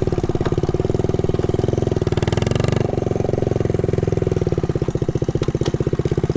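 A 1969 Honda Z50 mini bike's small 49cc four-stroke single-cylinder engine idling steadily, with an even, rapid beat of firing pulses.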